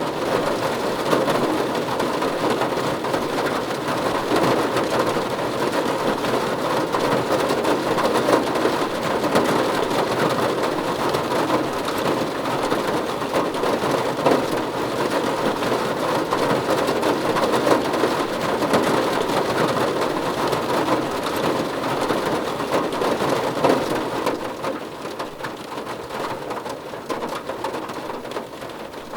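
Rain falling on a car roof, a dense, steady patter of many small drop impacts. It eases slightly near the end.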